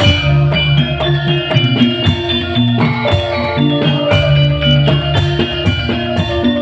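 A live band playing music: a regular drum beat under held, pitched melody notes.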